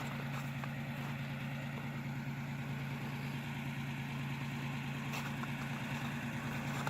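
Pickup truck engine idling steadily after the truck has slid off an icy road into a ditch.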